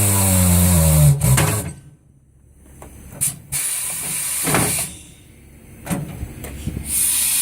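A pneumatic tire changer letting out compressed air in several loud hissing bursts, with sharp clicks between them. The first burst comes with a low hum that drops slightly in pitch and stops after about a second and a half.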